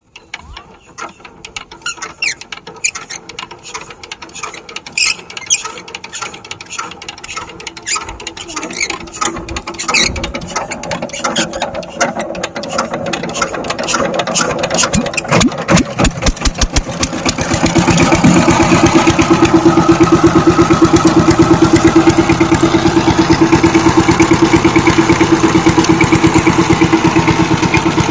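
Single-cylinder diesel engine of a walk-behind power tiller being started: irregular knocks and clatter, then a run of quickening strokes as it is turned over, until it catches about 17 seconds in and runs steadily and loud.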